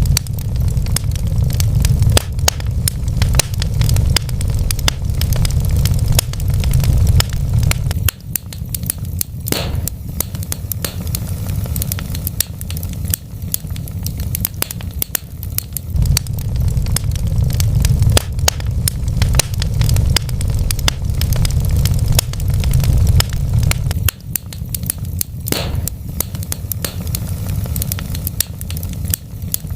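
Burning wood fire crackling, with dense irregular pops and snaps over a steady low rumble of the flames.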